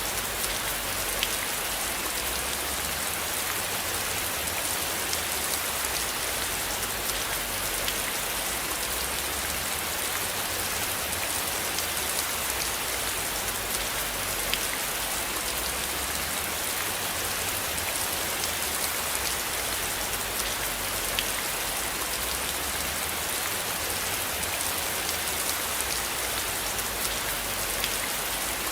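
Steady rain falling on a surface, an even hiss with scattered individual drops ticking, over a low rumble that swells and fades.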